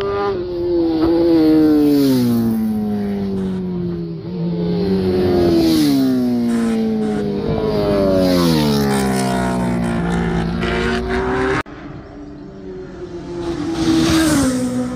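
Racing motorcycles passing at high speed one after another, each engine's high-revving note dropping in pitch as it goes by. The sound breaks off sharply about two-thirds of the way through, and another bike passes near the end.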